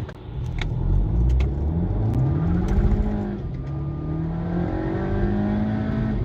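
Audi A3 (8P) engine accelerating hard through the gears. Its pitch climbs, drops at gear changes about three and four and a half seconds in, then climbs again, with a few sharp clicks in the first three seconds.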